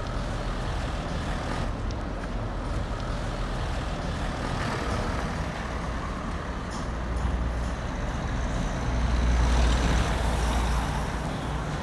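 Road traffic going past, with a steady low rumble that grows louder for a few seconds about two-thirds of the way through as a heavier vehicle passes close by.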